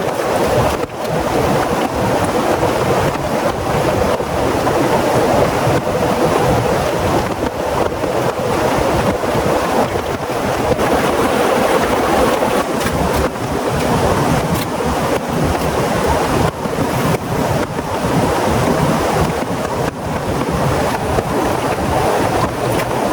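Heavy rain pouring steadily, a loud dense hiss with many small drop impacts through it.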